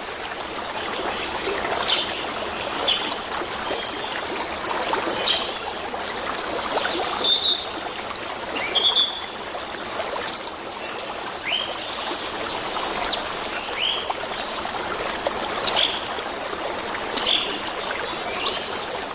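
Small birds chirping, many short calls that rise and fall in pitch throughout, over the steady sound of running water.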